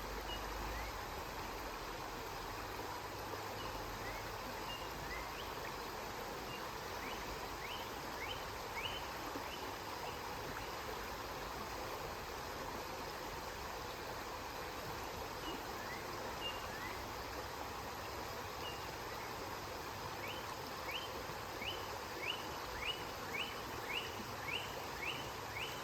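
River water flowing steadily. Over it, short rising chirps come in series, a few around eight seconds in and about two a second near the end.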